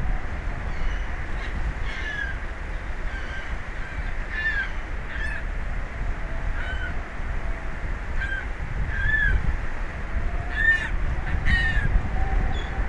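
Birds giving short, harsh calls again and again, each a brief rising-and-falling note, over a steady low rumble of wind on the microphone.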